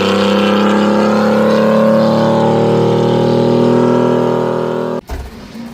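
V6 gasoline pickup engine revved hard and held at high revs, its pitch climbing slightly and then holding steady. This is a baseline burnout test with the rear differential still unwelded. The sound cuts off abruptly about five seconds in.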